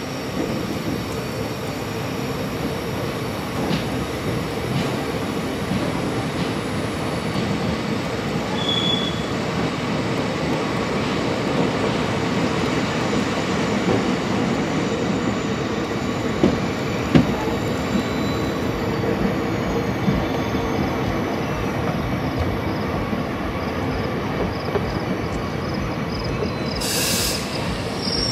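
ICF passenger coaches running along the track: a steady rumble and rattle of wheels on rail, with a couple of sharp knocks about two-thirds of the way through and a short hiss near the end.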